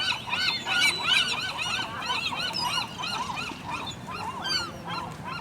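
A flock of seagulls calling over one another: many short, arched cries in quick, overlapping succession.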